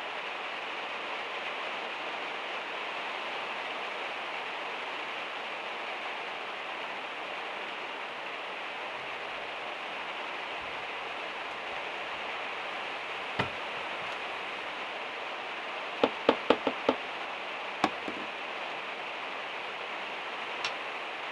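Steady rain on a van's metal roof, with sharp knocks inside: one single knock, then a quick run of about six, then one more.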